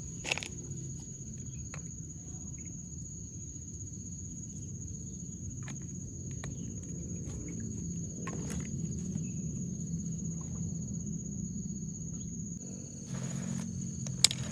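An insect's steady high-pitched drone outdoors over a low rumble, with a few scattered clicks and a sharp click near the start and near the end.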